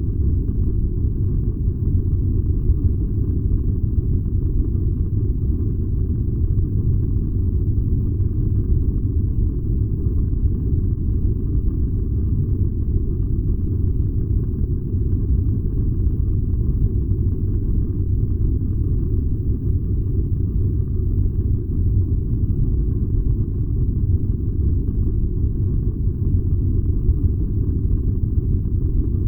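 Furnace running with a steady low rumble.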